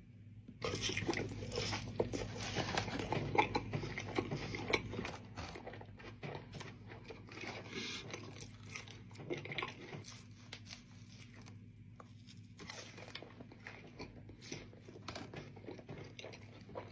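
A person biting into and chewing crispy breaded fried chicken crispers, crunching. The crunching starts about a second in and is densest for the first few seconds, then thins to softer chewing with scattered crackles.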